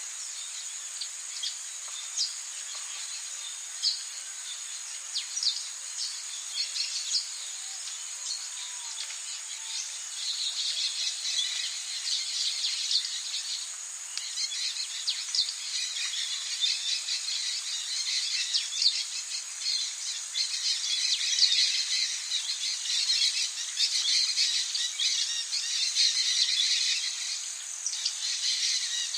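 Rainforest ambience: a steady, high insect drone with many short bird and insect chirps over it. The chorus of chirps grows denser and louder about a third of the way in.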